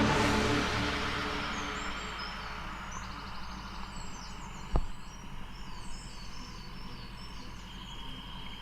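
Outdoor ambience: birds chirping over a steady background hiss and a faint high insect drone, as the tail of music fades out over the first couple of seconds. A single dull thump comes about halfway through.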